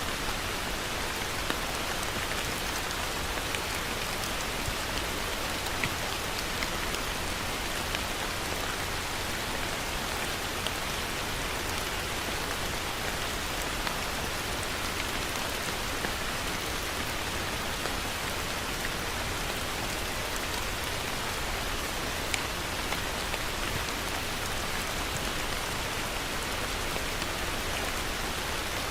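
Heavy rain falling steadily, a dense even hiss with scattered individual drops tapping close by.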